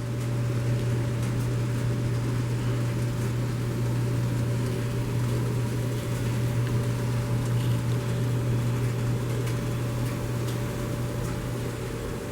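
Kato N-scale model freight trains running on the layout: a steady low motor hum with a continuous rolling rumble of wheels on track.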